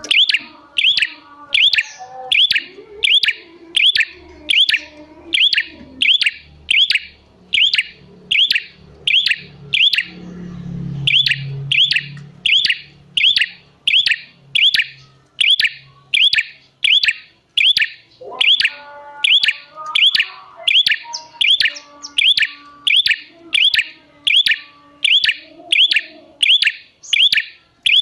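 Prenjak song: one sharp, high call repeated about twice a second without a break, with fainter lower bird notes behind it.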